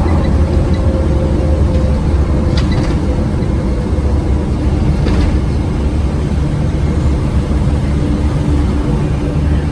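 Scania OmniCity single-deck bus's diesel engine running steadily under way, with two brief rattles about two and a half and five seconds in.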